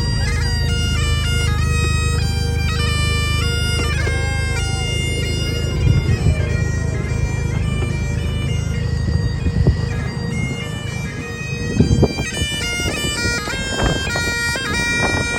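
Bagpipes playing a tune: a stepping melody on the chanter over steady drones.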